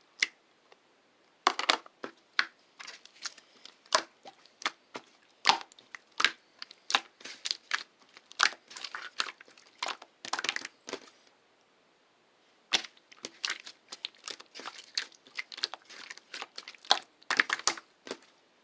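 Crinkly wrapping material being crumpled and handled, giving irregular crackles and rustles in two spells with a pause of about a second and a half partway through.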